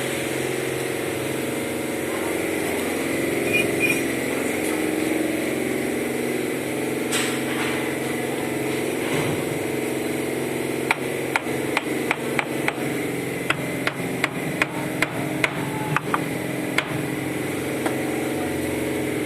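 A series of sharp taps, about two a second for several seconds in the second half, as bricks are knocked into place while being laid. A steady motor hum runs underneath.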